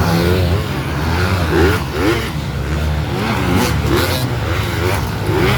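Motocross motorcycle engines running, a steady low drone with the pitch rising and falling as they rev.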